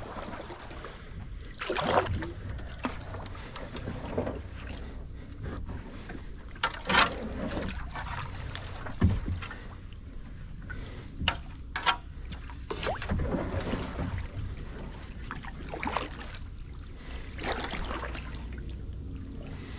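Kayak paddle strokes: the blade dipping and swishing through swamp water in irregular strokes, a few seconds apart, over a low steady rumble.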